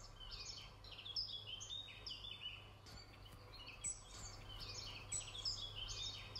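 Faint songbirds chirping, many short downward-sliding calls overlapping and repeating throughout, over a low steady hum.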